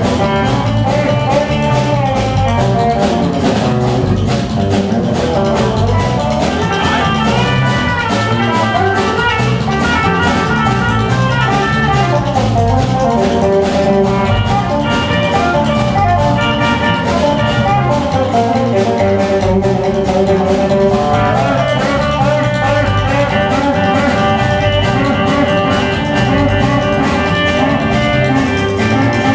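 Live band music with guitar over a drum kit keeping a steady beat.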